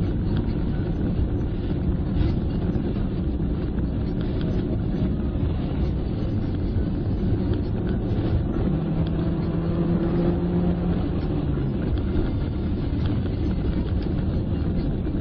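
Car driving on a highway, heard from inside: steady engine and tyre noise with a low rumble. About nine seconds in, a steady engine tone stands out for two or three seconds, then fades near twelve seconds.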